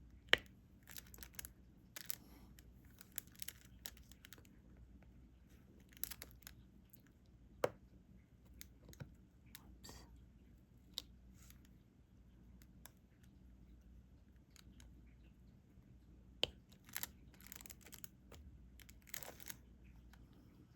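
Diamond painting: small resin drills rattling and scraping in a plastic tray, with a few sharp clicks as the drill pen taps them onto the sticky canvas.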